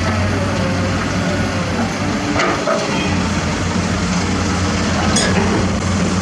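Diesel engine of heavy construction machinery running steadily with a low drone, with two short knocks about two and a half and five seconds in.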